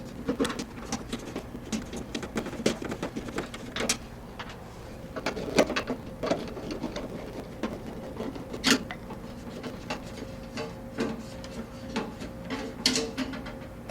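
Scattered light clicks, taps and knocks of hands and tools working on the back of a refrigerator to uncover the condenser coil, over a faint steady hum.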